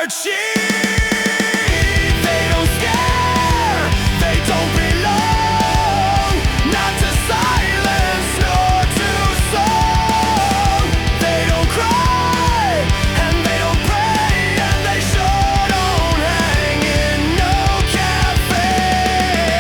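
Heavy rock music with no vocals: a full band with drums and a dense low end that comes in about half a second in, under a lead melody of held notes that bend and slide.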